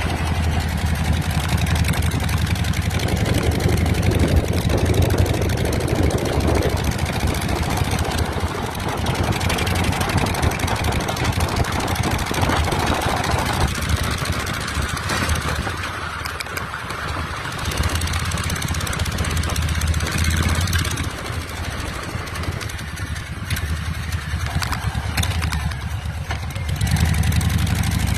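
Harley-Davidson Ironhead V-twin engine on a chopper running, mostly at idle, its level easing and swelling several times.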